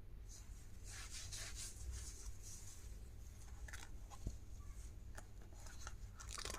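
Faint handling of stationery and its packaging by hand: soft rustling for a second or so, then a few small sharp clicks.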